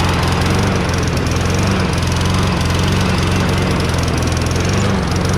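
Toro Recycler lawn mower's 6.5 hp Tecumseh engine running, its note wavering slightly now and then. It doesn't run very well: running rough, which the owner puts down to a dirty carburetor.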